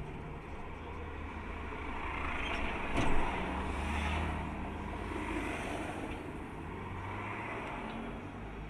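A car's steady engine and road noise while driving, with one short knock about three seconds in.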